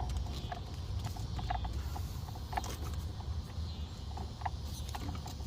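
Light, irregular clicks and taps of hands working a rubber heater hose onto a plastic quick-lock connector in an engine bay, over a steady low rumble.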